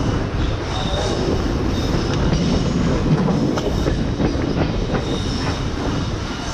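Passenger train running along the track, heard from an open coach door: a steady rumble of wheels on rail with occasional clicks. Brief high squeals come and go as the coaches take a curve.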